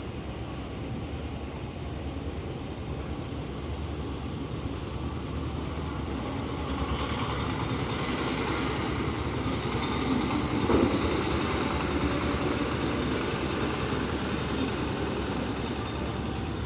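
Heavy engine running with a steady low rumble that swells louder in the middle, with a brief knock about eleven seconds in, then eases off again.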